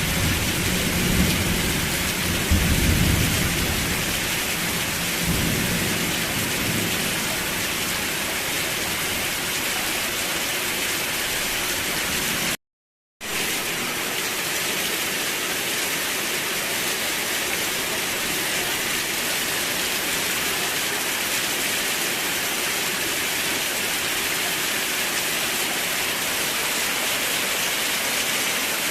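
Steady heavy rain, with a low rumble of thunder fading away over the first few seconds. About halfway through the sound cuts out completely for about half a second, then the rain carries on unchanged.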